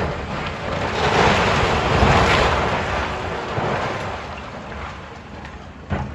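Rubble and debris crashing down during a building demolition: a rush of noise with low thuds that builds about a second in, peaks around two seconds and dies away over the next few seconds.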